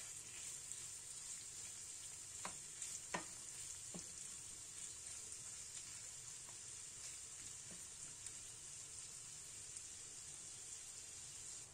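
Prawns sizzling faintly in hot oil in a nonstick frying pan as they are stir-fried, with a few light taps and scrapes of a wooden spatula against the pan in the first few seconds.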